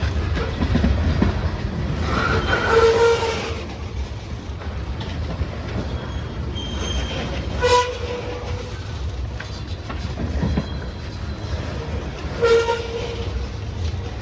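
Norfolk Southern freight train running past with a steady low rumble. A horn sounds three short blasts, the first the longest, about three, eight and twelve seconds in.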